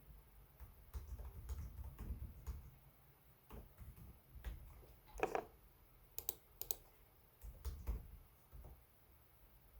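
Typing on a Lenovo Legion 5 Pro laptop keyboard: irregular runs of key clicks with short pauses. A brief squeak about halfway through is the loudest sound.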